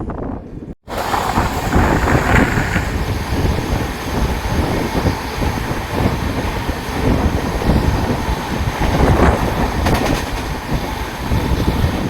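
Passenger train heard from on board at speed: a loud, continuous rumble of wheels on the rails with rattling clatter and wind buffeting the microphone. The sound drops out abruptly for a moment just under a second in, then comes back as loud as before.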